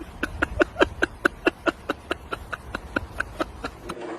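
A fast, even run of sharp taps or knocks, about five a second, stopping just before the end.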